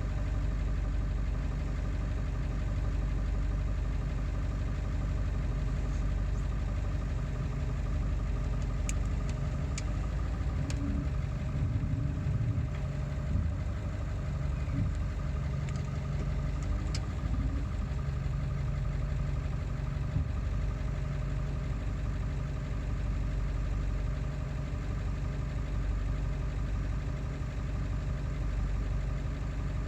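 Ford 7.3-litre Powerstroke V8 turbo-diesel idling steadily, with a few light clicks partway through. The owner says it still runs rough even with a new ICP (injection control pressure) sensor.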